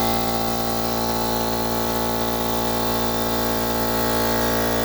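Central Pneumatic 2-horsepower 8-gallon air compressor running steadily, its electric motor and pump at an even hum. It is running normally on a freshly replaced motor capacitor, which cures its failure to start and its tripping of the overload protector.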